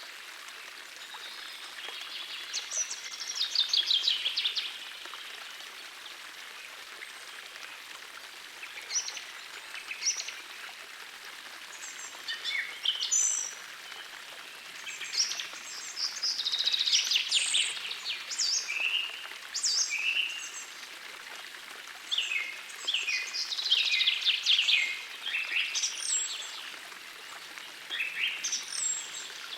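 Songbirds singing short phrases and rapid trills every couple of seconds over the steady rush of a gentle forest stream.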